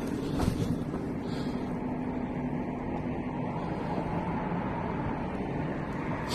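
Steady rumble of wind and motion on the microphone while riding a bike through the city, with a faint steady hum in the first few seconds.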